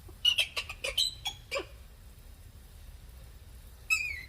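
Galah giving a quick run of short, sharp chirps in the first second and a half, then one short call falling in pitch near the end.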